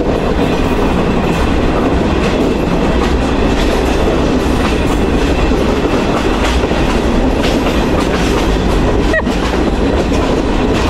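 Train cars rolling on the rails while the train backs up: a steady rumble and rattle with wheels clacking over the rail joints.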